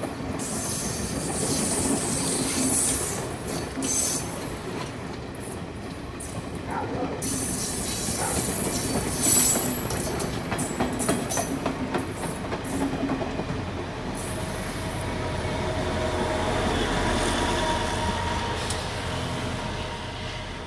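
A Sri Lankan train passing on the rail line, its wheels squealing high and clicking over the rail joints, with a sharp knock about nine seconds in. In the second half a lower, steady engine drone grows louder, then fades near the end.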